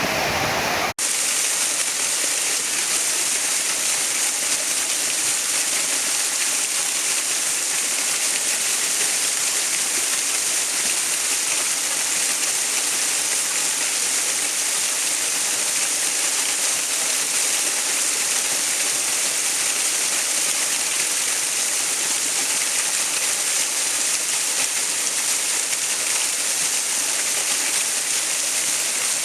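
Steady rushing water, an even hiss with most of its weight high and little low rumble, like a waterfall or fast stream. About a second in there is a brief dropout where one water recording cuts to the next.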